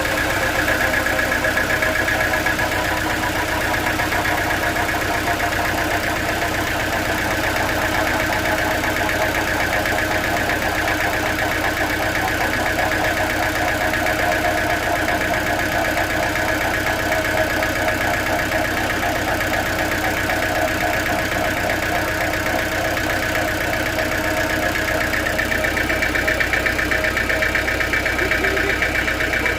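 Sawmill machinery running steadily: a constant engine-like drone with a held whining tone, and a second, slightly higher whine joining near the end.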